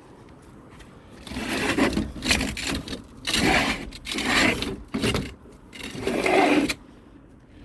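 A greenhouse sliding door scraping along its track in about five jerky pushes, each lasting up to a second. The scraping is loud next to the speech around it.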